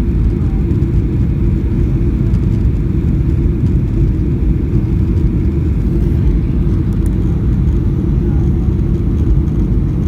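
Steady low rumble of a Boeing 737-800's engines and airflow, heard inside the passenger cabin from a rear window seat.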